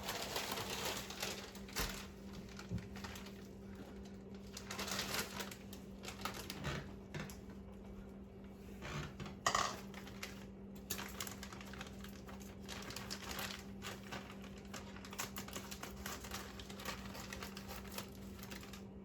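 Irregular clicking, clattering and crinkling of plastic containers and packaging being handled on a counter, with a sharper clatter about halfway through, over a steady low hum.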